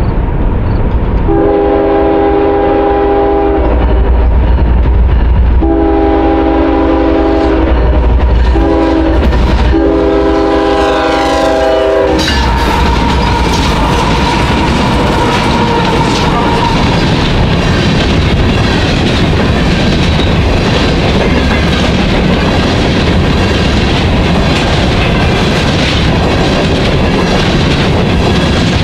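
CSX freight train's locomotive horn sounding the grade-crossing signal, two long blasts, one short and one long, over the low rumble of the approaching GE diesel locomotives. After the horn stops, about twelve seconds in, the ES44AC and ET44AC locomotives pass close by, followed by a long string of covered hopper cars rolling past.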